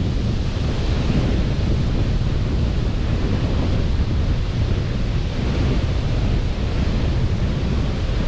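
Steady noise of sea surf and wind, with a flickering low rumble of wind buffeting the microphone.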